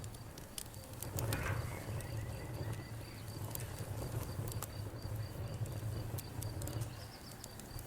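Wood fire crackling, with scattered sharp pops and snaps over a steady low rumble. A high, evenly pulsing chirp runs underneath.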